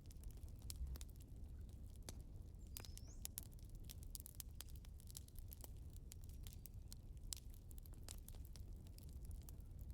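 Wood fire crackling: irregular sharp pops and snaps over a low rumble, with a short rising whistle about three seconds in.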